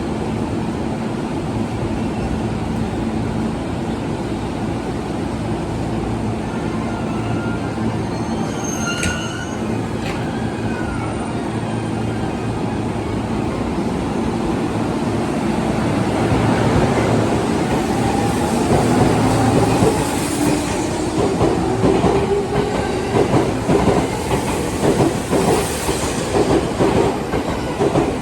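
E231-800 series electric train pulling out. A steady hum gives way to the rising whine of its inverter-driven traction motors as it accelerates, then the wheels start clicking over the rail joints faster and faster. A brief high tone sounds about nine seconds in.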